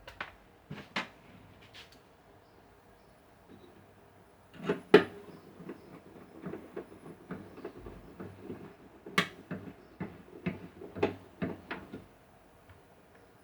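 A series of sharp clicks and knocks from hard parts and tools being handled at a workbench. The loudest knock comes about five seconds in, then a busy run of lighter clicks, with a few more taps near the start.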